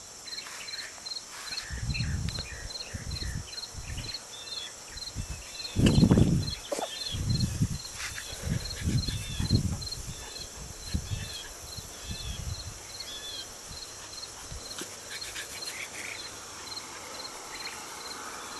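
Outdoor insect chirping, a regular chirp about twice a second over a steady high insect hiss. Low rumbling bumps come through several times, loudest about six seconds in.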